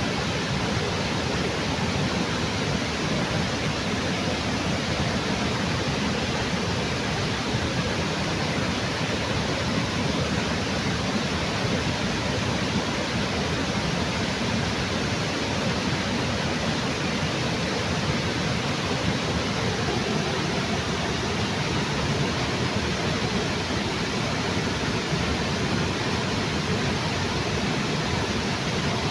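River water pouring over a small waterfall under a bridge: a steady, unbroken rush of falling water.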